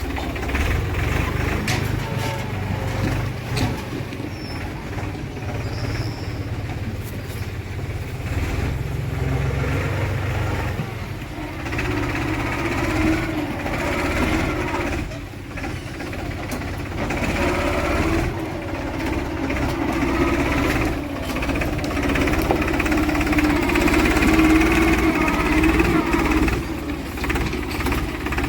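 Diesel engine of a JCB 3DX backhoe loader running under working load while it digs and loads mud, with a knocking diesel clatter. The engine note climbs and grows louder in the second half as the machine works harder.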